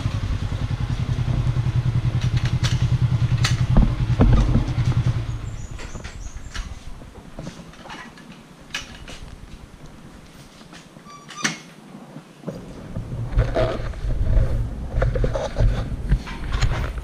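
KTM 450 SX-F's single-cylinder four-stroke engine running at idle with an even thumping pulse, then switched off about five seconds in. Scattered clicks and knocks follow as the bike is handled.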